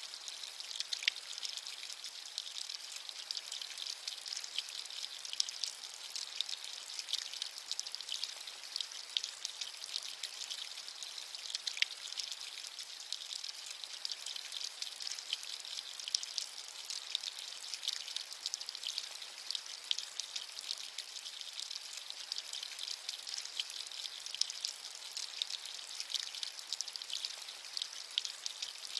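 Steady rain, a dense patter of small drops with an even high hiss and a few sharper single drop clicks, with almost no low rumble.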